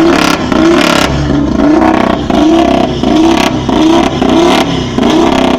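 Car engine and exhaust revved in quick repeated throttle blips, about two a second, each one a short rise in pitch.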